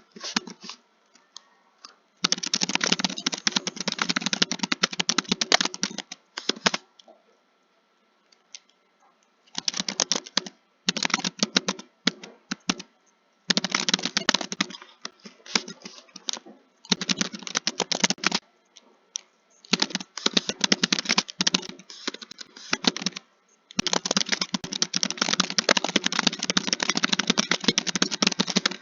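Computer keyboard being typed on in fast runs of keystrokes, each a second to several seconds long, with short pauses between them.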